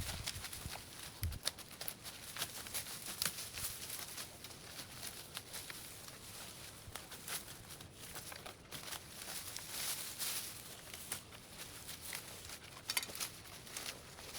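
Dry leaves and brush rustling and crackling irregularly as overgrowth is cleared.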